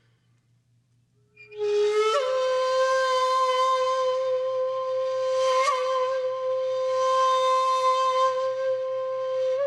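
Soundtrack music: after about a second and a half of near silence, a breathy wind instrument slides up into one long, steadily held note.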